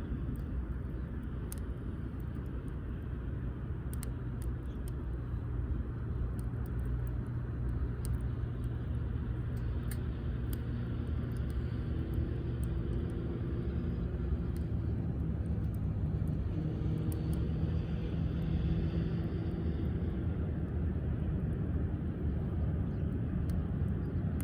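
A distant engine drone, low and steady with a few held pitches, slowly getting louder. Faint scattered sharp clicks sound over it.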